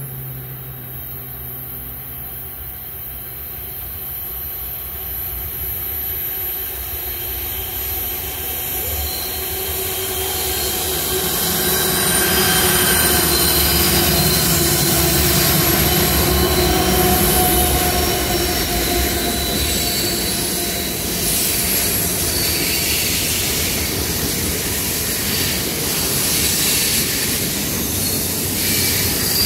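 Freight train approaching and passing: the BNSF diesel-electric locomotives' engines grow louder over the first dozen seconds and are loudest as they go by, then the steady rumble of loaded freight cars rolling past on the rails.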